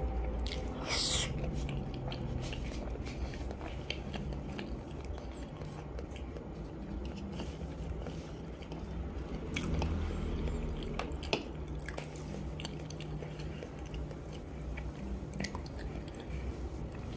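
A person biting and chewing peeled hard-boiled chicken eggs, with scattered soft mouth clicks.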